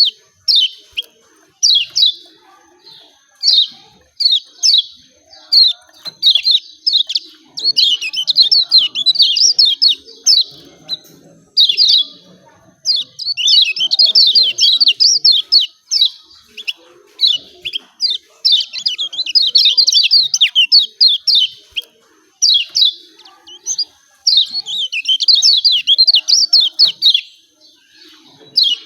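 Kecial kuning giving its rapid 'ciak ciak' chattering calls. The calls come in bursts of quick, sharp notes, some short and some running for a couple of seconds, with brief pauses between them.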